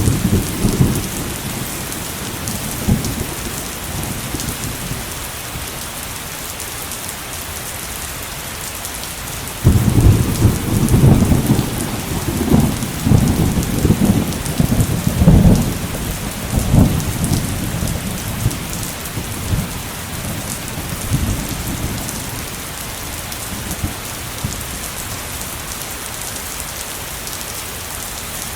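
Heavy rain falling steadily, with thunder: a short rumble at the start, then a long rolling peal of thunder with several loud cracks and booms that fades out over about twelve seconds.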